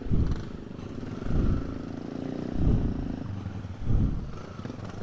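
Trail motorcycle engine running, with louder low surges about every second and a quarter.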